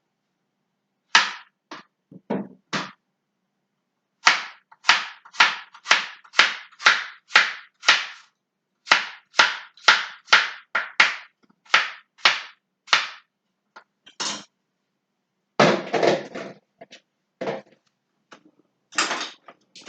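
A knife chopping vegetables on a cutting board in steady strokes, about two a second, with short pauses and a busier clatter about two-thirds of the way through.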